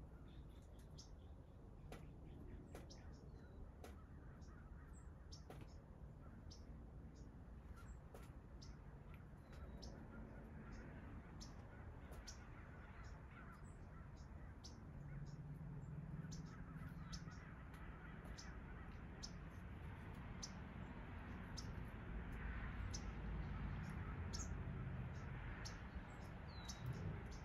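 Faint bird calls: many short, sharp chips scattered throughout, with cawing among them, over a low steady rumble that grows a little louder in the second half.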